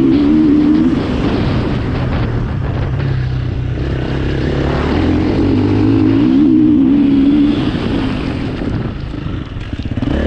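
2021 KTM 350 four-stroke single-cylinder enduro motorcycle engine ridden at full throttle, its revs climbing and dropping in turn as the rider accelerates and backs off.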